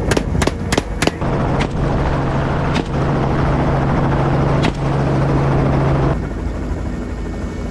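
Rapid rifle shots, about four a second, for the first second, then single shots a second or two apart, over a helicopter running steadily.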